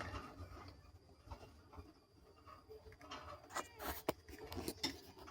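Faint scattered clicks and taps, with a few sharper ones in the second half.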